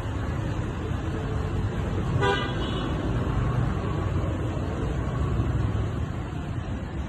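A single short car horn toot about two seconds in, over a steady low rumbling noise.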